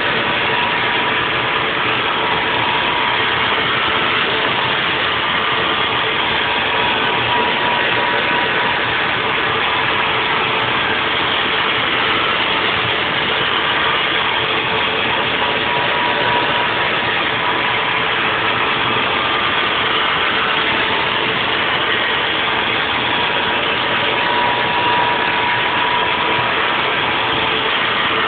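Haas VF4 CNC vertical mill cutting a 3D nest block: a steady, dense machining noise with a faint whine that swells and fades a few times.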